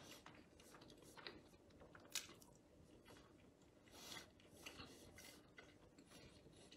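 Near silence with faint, scattered mouth sounds of a man chewing a bite of steak sandwich: soft smacks and clicks every second or so.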